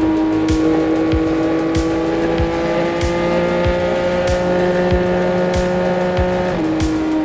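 2025 CFMoto 675SS inline three-cylinder engine with an aftermarket exhaust, running under load at highway speed. The note climbs slowly as the bike accelerates, then drops a little about six and a half seconds in as it shifts up a gear.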